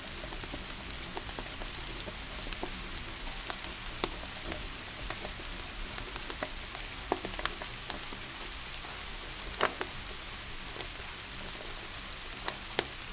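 Steady rain hiss with a wood fire crackling over it: scattered sharp pops at irregular intervals, the loudest about ten seconds in.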